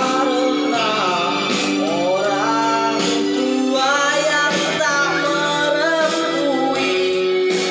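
A solo voice singing a drawn-out, ornamented melody over a steady instrumental accompaniment, bending and wavering on long held notes.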